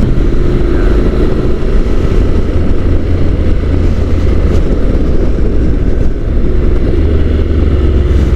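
Honda NC750 DCT's parallel-twin engine running steadily under way, heard through heavy wind rush on the helmet microphone.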